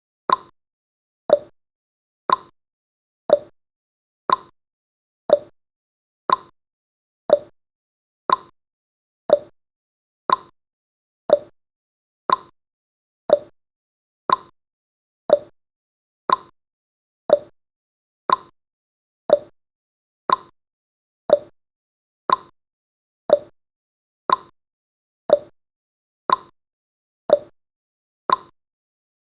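Countdown timer's clock-tick sound effect: one short, sharp tick each second, alternating between a lower and a higher tick in a tick-tock pattern.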